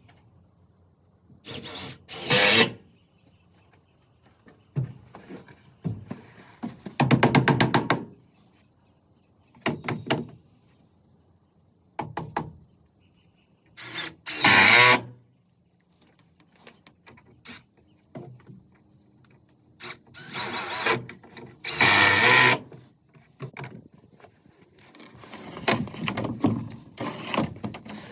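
Woodworking tools working wood in short separate bursts of about a second each, with quiet gaps between. One burst about seven seconds in is a rapid run of ticks, and the work is busier near the end.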